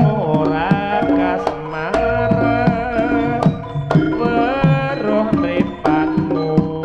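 Live Javanese jaranan ensemble music: kendang hand drums beating a busy rhythm under steady gamelan-style pitched percussion and a melodic lead that bends up and down in pitch.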